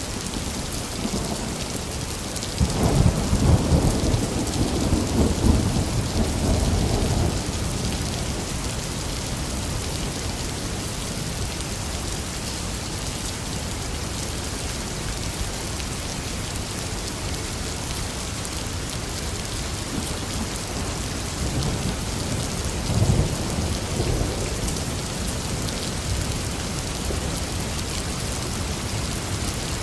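Steady heavy rain falling, with thunder rumbling twice: a long, loud roll a few seconds in and a shorter, fainter one near the end.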